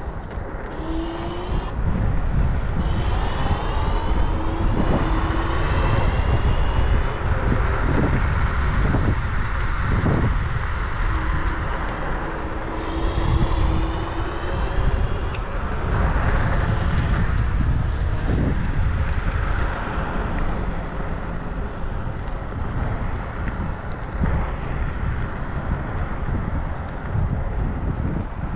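Wind buffeting the microphone of a moving rider, a steady loud rumble, with a faint whine that rises and falls in pitch at times.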